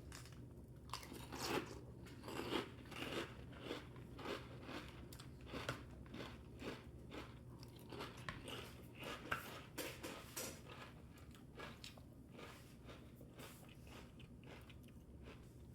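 A person chewing a mouthful of Great Value Confetti Crunch, a crunchy cinnamon-toast-style cereal, with repeated crunches about two a second that grow fainter and sparser near the end.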